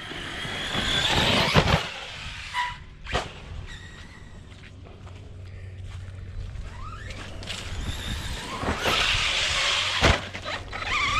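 Electric RC monster trucks running on dirt, their brushless motors whining and tyres hissing as they speed up. Hard thumps land about 1.5 s in, about 3 s in and near 10 s in, as the trucks come down off jumps.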